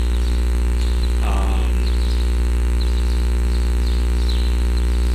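Steady low electrical mains hum, with a stack of buzzing overtones above it. A brief, faint voice-like sound comes about a second in.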